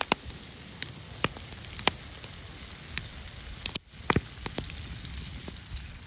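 Vegetables frying in oil in a wide black pan over a wood fire: a steady sizzle with scattered sharp pops and crackles.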